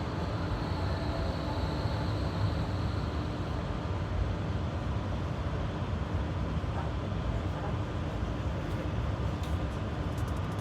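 Berlin GT low-floor tram running along the line, heard from on board: a steady low rumble of wheels on rails with faint steady tones above it.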